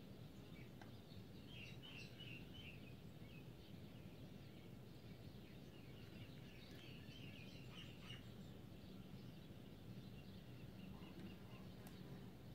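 Faint birds twittering in two short spells, about two seconds in and again about seven seconds in, over a low steady background noise.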